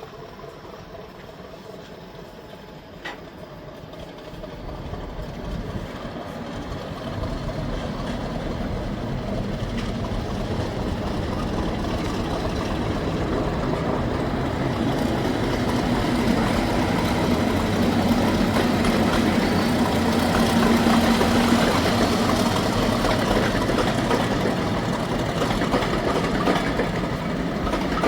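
A train running on the track, its rumble growing steadily louder for about twelve seconds and then staying loud, with a single sharp click about three seconds in.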